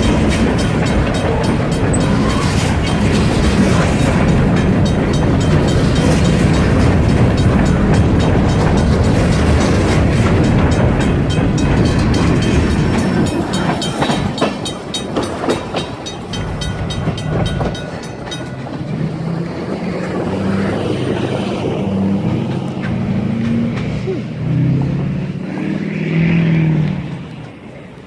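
Freight train rolling past: a loud, steady rumble with wheels clicking over the rail joints, fading away about halfway through and leaving a quieter low droning.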